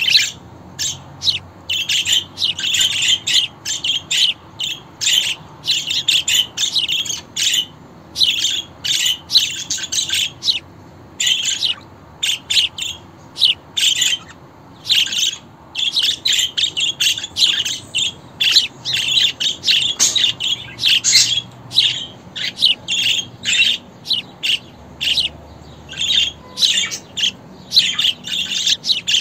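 Budgerigar chirping and chattering: quick runs of short, high calls with brief pauses between them.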